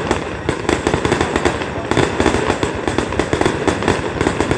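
Aerial fireworks going off in a rapid, unbroken barrage of bangs and crackles, many a second.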